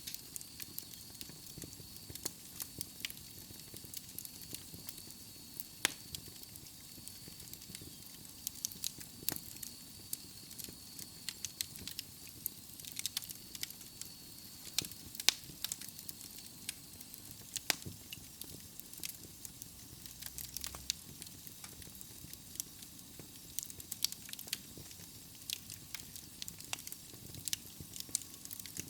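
Wood fire in a fireplace crackling: irregular sharp pops and snaps of burning logs over a soft steady hiss. A faint, thin high whistle sounds through the first half, then fades out.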